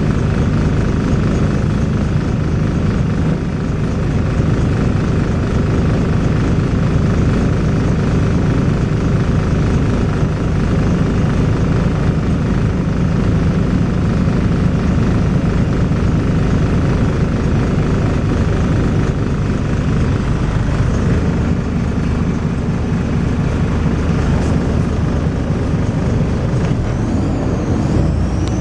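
Volvo B6LE bus's six-cylinder diesel engine running loud and steady while the bus is under way. A faint, high rising whine comes in near the end.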